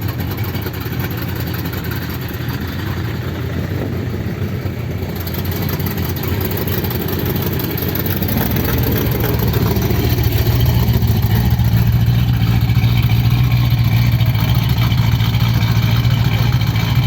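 A car engine running at idle with a steady low rumble, growing louder about ten seconds in. It sounds "a bit mean".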